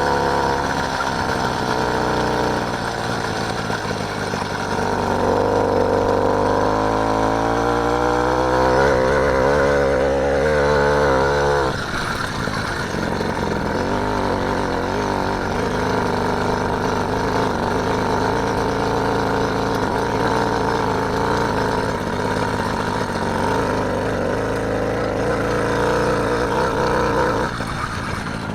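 Motorised bike's small engine running under way, its pitch rising for several seconds as it accelerates, then dropping suddenly about twelve seconds in as the throttle comes off. It then runs steadily, with a further change in note near the end.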